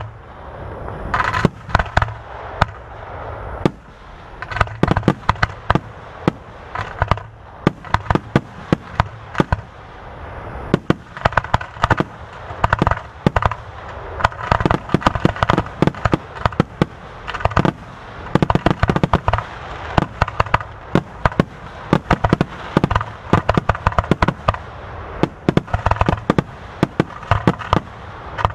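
Aerial fireworks display: a rapid, continuous barrage of shell bursts and crackling, with many loud bangs close together, typical of a finale.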